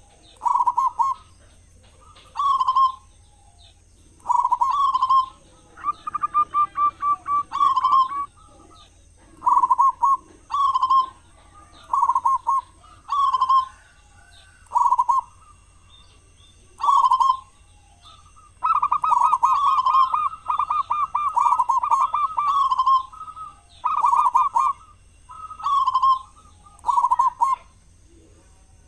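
Zebra dove (perkutut) cooing: short bubbling phrases of rapid coos, repeated every second or two, with one longer unbroken run about two-thirds of the way through. Fainter high chirps sound between the phrases.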